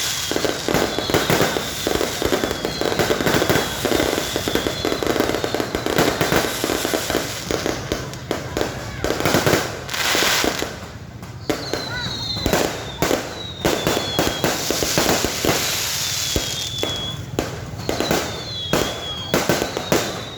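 Many fireworks and firecrackers going off at once: a dense, continuous run of cracks and bangs, with short whistles gliding in pitch over and over.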